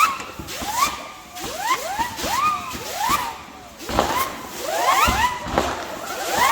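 Whistling fireworks: a rapid series of shrill whistles, about two a second and sometimes overlapping, each rising quickly in pitch and then dropping away.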